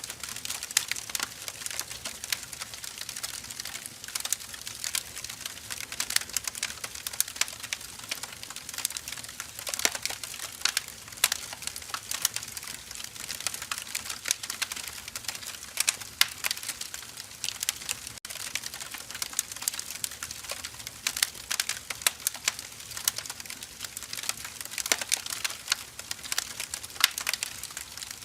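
Firewood burning: a steady, irregular crackling of many small sharp pops, with some louder snaps here and there.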